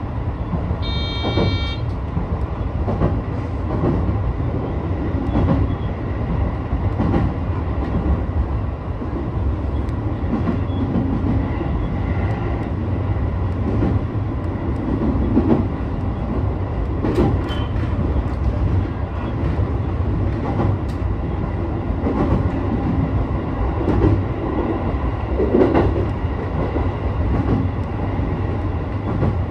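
Sotetsu 12000 series electric train running at speed, a steady rumble of wheels on rail with irregular clacks over the track. A brief high beep sounds about a second in.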